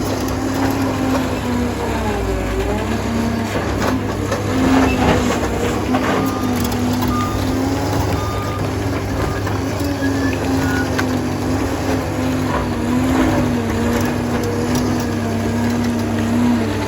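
Liebherr 746 crawler dozer working, its diesel engine droning steadily under load, with scattered knocks and clanks from the machine as it pushes earth.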